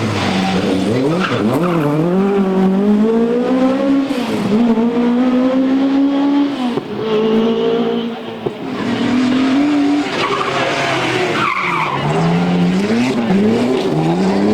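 Rally car engine running hard through the gears, its pitch climbing and then dropping back at each gear change or lift, several times over. A short tyre squeal comes about three quarters of the way through.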